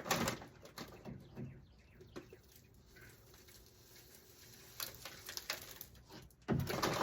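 Dove cooing faintly, with a few short handling noises: a burst right at the start, small knocks around a second or two in, and louder rustling near the end.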